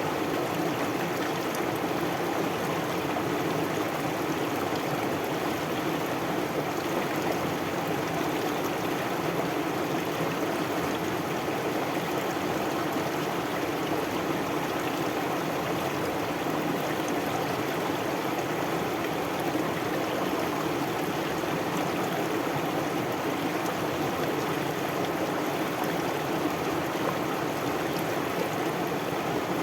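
Stream water flowing steadily with an even rushing sound.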